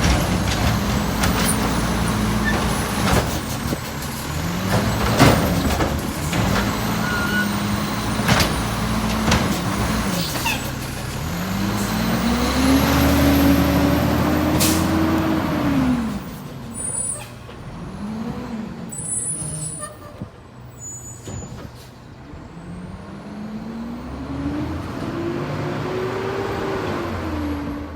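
Heavy diesel truck's engine revving up and dropping back over and over as it pulls through its gears, with sharp air-brake hisses and clunks in the first half. It goes quieter after about 16 s, then climbs in pitch again near the end.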